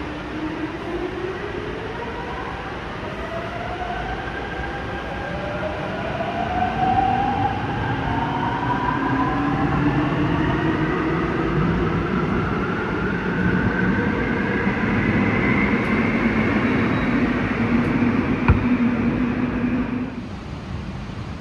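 Seoul Line 5 subway train accelerating: its electric traction motors give a whine of several tones climbing steadily in pitch over rolling noise, with a sharp click near the end before the sound falls away.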